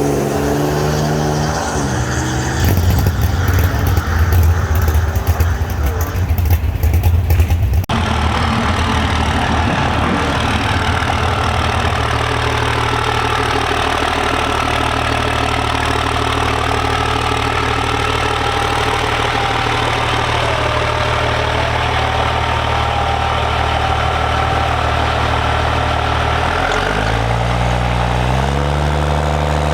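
Vehicle engine dropping in revs, then a few seconds of loud rough engine noise that stops abruptly, then a steady idle. The revs rise again near the end.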